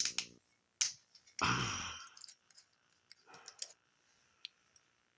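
A few scattered light clicks and taps from objects being handled, with a small cluster of them about three and a half seconds in.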